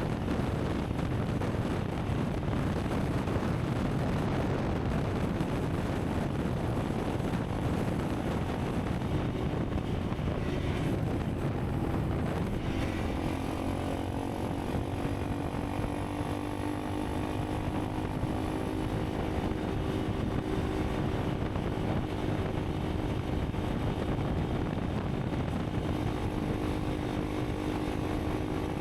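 Honda CRF300 Rally's single-cylinder engine running under way, mixed with wind rush on the microphone. About halfway through, the wind noise eases and the engine's steady note comes through clearly.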